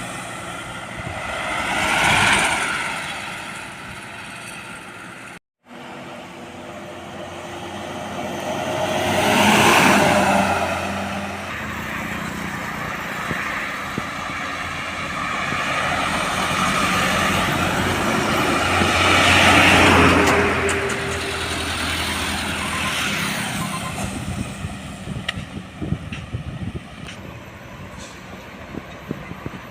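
Road traffic passing close by, mostly trucks: three vehicles swell up loudly and fade away, about two, ten and twenty seconds in, over a steady engine and tyre rumble. The sound cuts out completely for a moment at about five and a half seconds.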